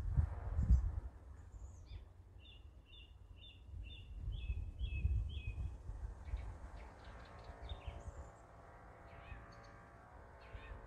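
Small birds chirping: a quick run of about seven chirps a couple of seconds in, then scattered chirps, over a steady low outdoor rumble.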